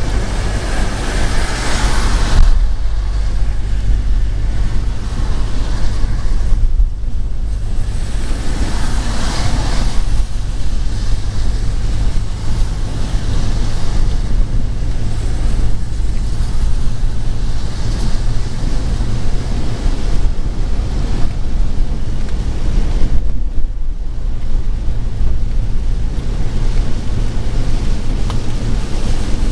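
Road traffic on a rain-wet road: a steady low rumble with swells of tyre hiss as vehicles pass, dipping briefly about seven and twenty-three seconds in.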